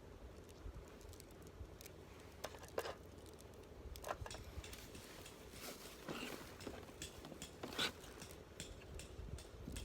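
Faint, scattered clicks, taps and rustles of small objects being handled, over a low steady room hum.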